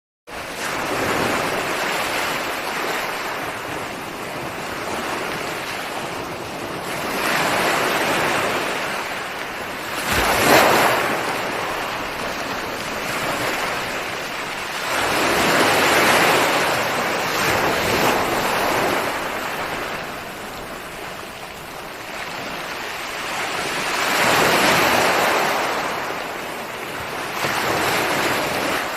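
Ocean surf: waves breaking and washing in, swelling and fading every few seconds, with the sharpest crash about ten seconds in. The sound comes in abruptly from silence at the very start.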